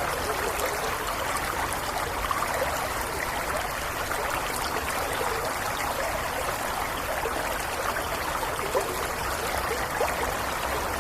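Stream water trickling and gurgling steadily, with a low steady rumble underneath.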